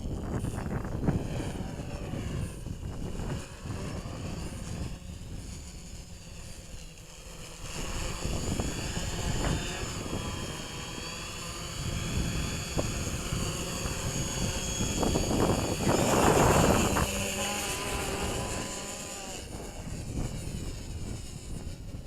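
Electric motors and propellers of a radio-controlled tri-copter whining in flight, their pitch rising and falling as the throttle changes, over wind noise on the microphone. The sound swells to its loudest about two-thirds of the way through.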